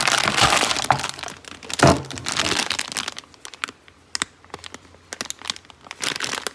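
Crackling and rustling of things being handled and rummaged through, with a sharp knock about two seconds in and scattered clicks after.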